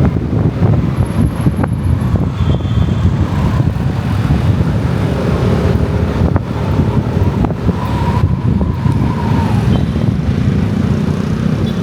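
Riding a motorcycle through city traffic: steady engine and road rumble with wind buffeting the microphone, and traffic noise around.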